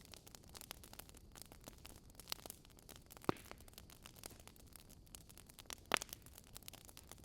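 Wood fire crackling in a fireplace: a steady patter of small sharp crackles over a low hiss, with two louder pops, one a little under halfway through and one about four-fifths of the way through.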